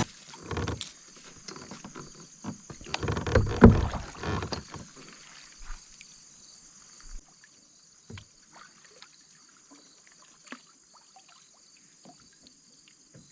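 Kayak on the water: a run of knocks and splashes from paddle and plastic hull in the first five seconds, then scattered light taps, over a steady high-pitched insect chorus.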